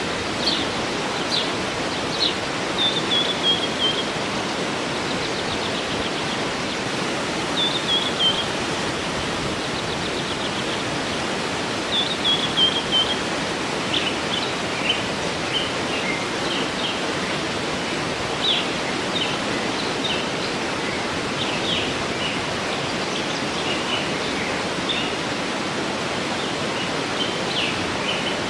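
Waterfall rushing steadily, with small songbirds singing over it: a short descending phrase about 3, 8 and 12 seconds in, then scattered high chirps.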